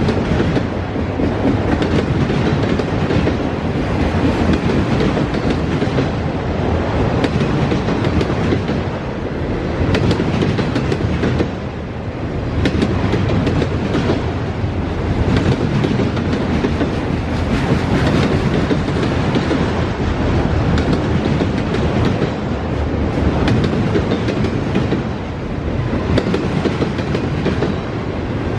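Freight train cars rolling past, a steady rumble of steel wheels on rail with repeated sharp clicks as the wheels cross rail joints.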